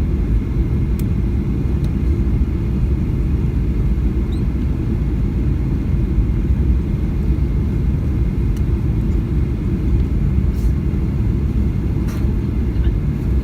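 Steady low rumble inside a Boeing 737-800's cabin on approach: its CFM56 engines and the air rushing past the fuselage. A few faint clicks are heard over it.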